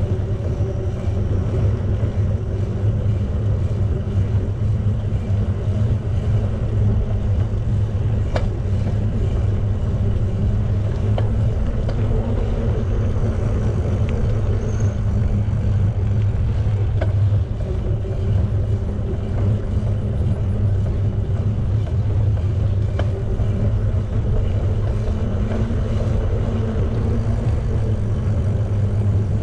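Steady low rumble of riding a bicycle, wind buffeting the microphone and tyres rolling on pavement, with a few faint clicks.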